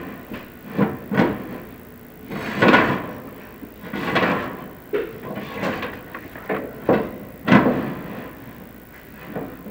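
An irregular series of scrapes and knocks, about a dozen in all, some short and sharp and some drawn out over half a second, with the loudest scrapes about three seconds in and again past seven seconds.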